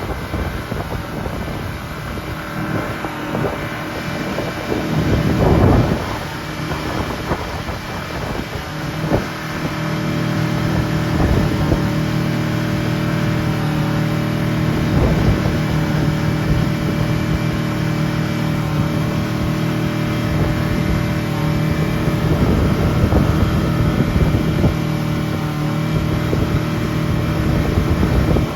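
Speedboat's 200-horsepower Mercury outboard running steadily at speed, with wind buffeting the microphone and water noise. The engine's hum grows steadier and stronger about a third of the way in, and there is a loud gust of wind early on.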